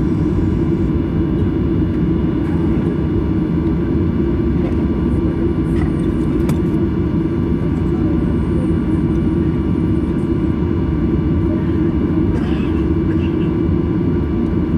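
Steady cabin noise of a jet airliner on the ground after landing: an even low rumble from the engines and air systems, with a faint steady whine above it.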